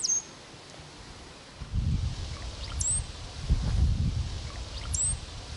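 Brown-headed cowbird calling: three short, very high whistles, each sweeping sharply down and then flicking up, spaced two to three seconds apart. Low rumbling background noise comes in after the first call.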